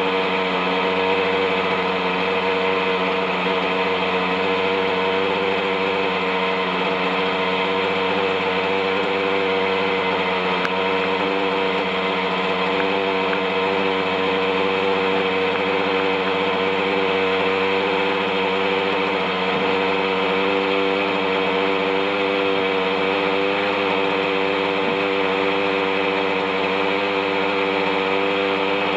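OS 61SF two-stroke glow engine of an RC helicopter running at a steady hover, with its rotor, holding an even pitch throughout. The engine has gone over thirty years without maintenance and its bearings are rusty.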